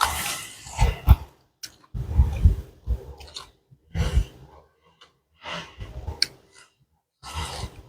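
A person eating pounded salad with rice noodles close to the microphone: chewing and breathing in short bursts about once a second, with brief pauses between mouthfuls.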